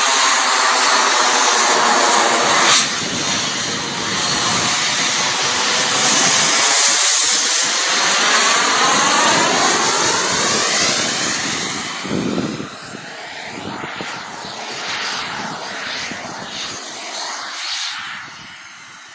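Fighter jet flying past, its jet engine noise loud with a sweeping, shifting tone, then fading away from about twelve seconds in.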